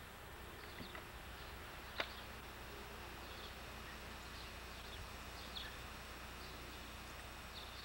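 Birds chirping faintly over a steady hiss, with a single sharp click about two seconds in.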